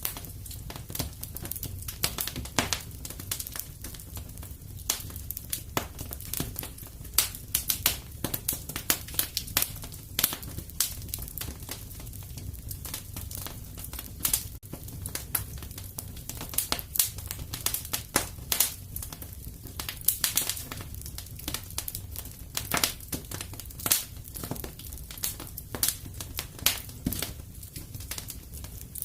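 Fireplace fire crackling steadily: a dense, irregular run of sharp snaps and pops over a low, even rumble of the flames.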